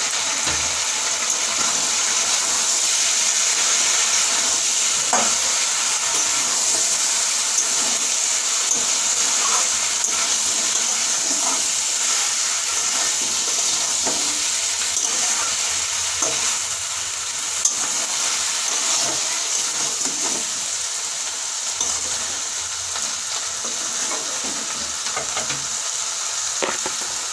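Chicken and potato pieces sizzling steadily in hot oil in a metal kadai, with scattered knocks and scrapes of a spatula stirring them.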